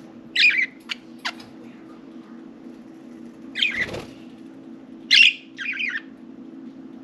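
Budgerigars giving short chirping calls, a few scattered bursts with pauses between, over a steady low hum.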